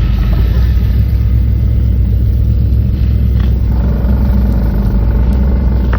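Vehicle engine running with a steady, loud low rumble; a faint steady whine joins about two-thirds of the way in.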